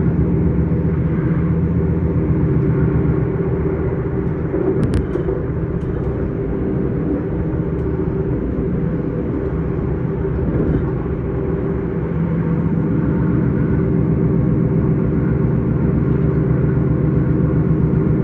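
Inside an electric S-Bahn train running along the line: a steady rumble of wheels on rail with a constant hum of several tones from the traction equipment. A single sharp click sounds about five seconds in.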